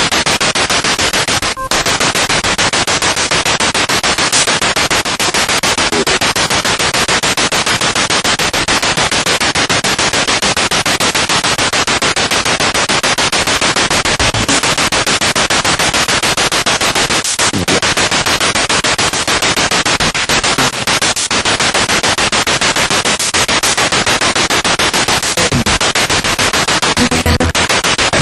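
Spirit box radio sweeping through stations: loud, continuous static chopped into rapid, even pulses, with a few brief fragments of other sound breaking through now and then.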